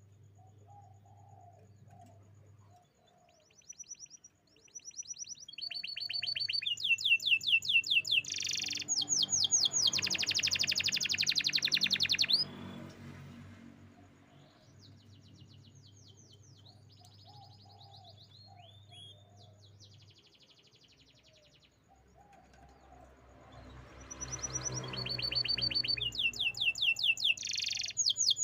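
Canary singing: two long bouts of fast, rolling trills and repeated high notes, the first ending abruptly about halfway through and the second starting near the end, with softer chirps in between.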